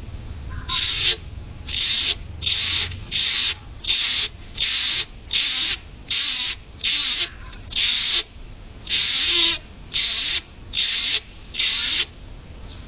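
Coucal (but-but bird) hissing: a series of about fourteen short, raspy hisses, a little over one a second, one of them longer about nine seconds in.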